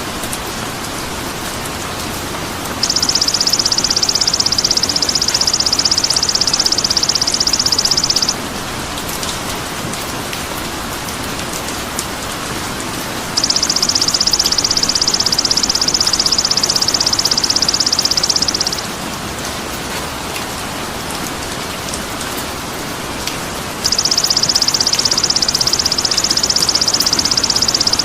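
Songbird tutor (masteran) recording: a high, very fast buzzing trill that runs about five seconds at a time and comes three times, identical each time, over a steady rain-like hiss.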